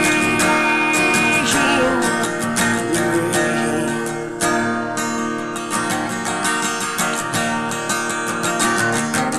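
Guitar strummed in a steady rhythm, an instrumental passage of a solo original song.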